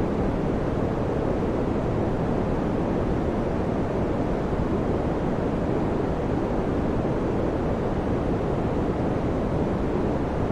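Electric fan running: a steady, even whooshing noise, mostly deep, with no hum, rhythm or change in level.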